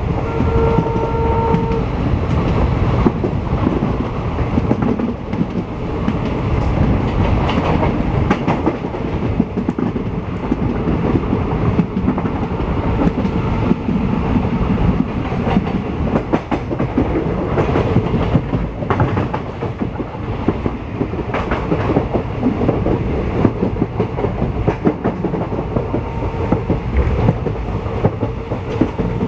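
Passenger express train running along the track, its wheels clattering steadily over the rail joints. A short, steady train horn blast of about a second and a half sounds right at the start.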